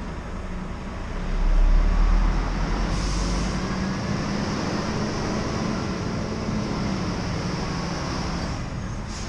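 Scania R490 truck driving: steady engine drone and road noise, with the low rumble swelling louder about a second and a half in before settling back.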